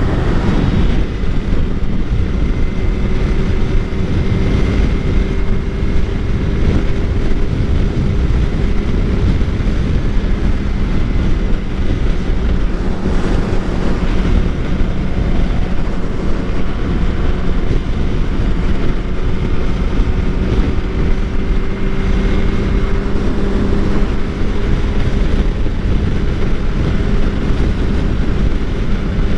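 2013 Suzuki GSX-R 600's inline-four engine running at a steady highway cruise, with heavy wind rush on the microphone.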